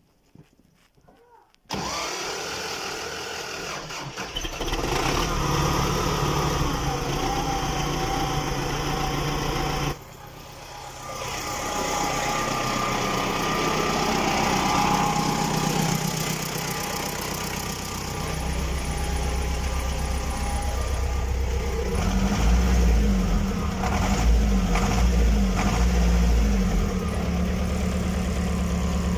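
A vehicle engine cold-starting: near quiet, then it catches suddenly about two seconds in and runs loudly. Its sound drops sharply about ten seconds in and builds back up within two seconds, then settles into a steady, deeper-sounding run near the end.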